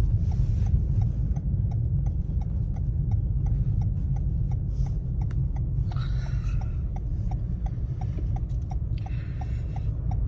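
Car engine and road rumble heard inside the cabin, with a turn-signal indicator ticking steadily about twice a second.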